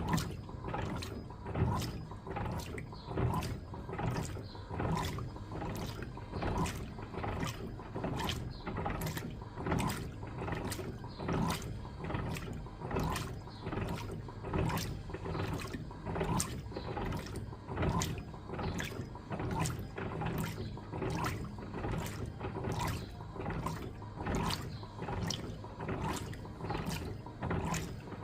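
Electrolux LTA15 top-loading washing machine agitating a load in water: the water sloshes with each stroke of the agitator, and a mechanical click comes in an even rhythm of roughly two a second.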